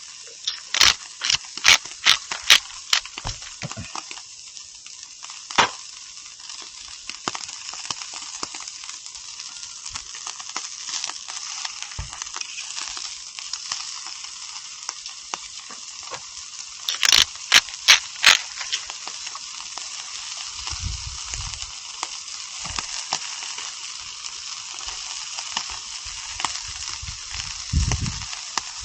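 Meat sizzling steadily on a grill over a small wood fire, with bursts of sharp crackling pops in the first few seconds and again about two-thirds of the way through.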